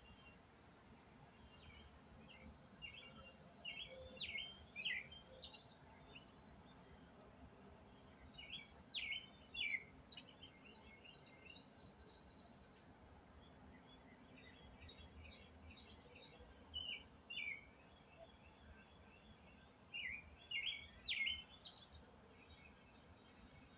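A songbird sings short chirpy phrases in four bursts over a low outdoor background, with a thin, steady, high-pitched hum underneath.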